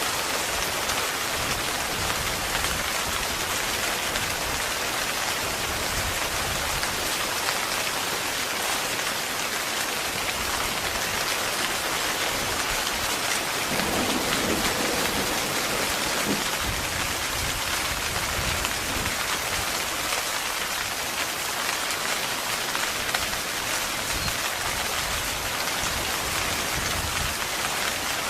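Heavy rain falling steadily on a tent fabric, a dense even patter of drops, with a brief swell in the lower sound about halfway through.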